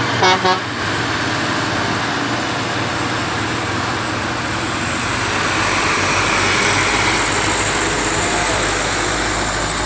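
Two short horn blasts about half a second in, then the steady noise of heavy trucks labouring up a hill, with a deep engine rumble growing louder from about halfway.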